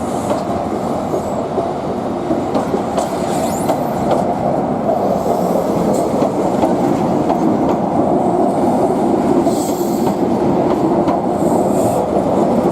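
Class 43 HST train moving slowly out of the station: a steady rumble that builds gradually, with wheels clicking over the rail joints and a few brief high wheel squeals near the end.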